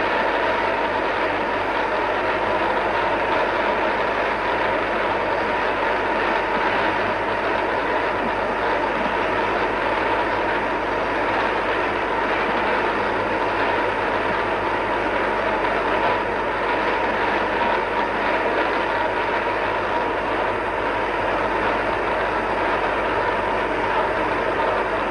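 A large congregation praying aloud all at once: a dense, steady roar of many voices with no single voice standing out.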